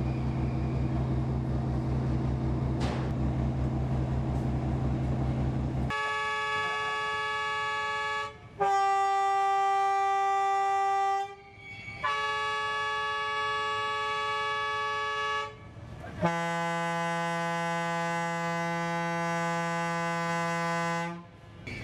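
A boat's engine running with a low, pulsing hum, then from about six seconds in a horn sounds four long blasts. The second blast is a little lower than the first and third, and the last is the lowest.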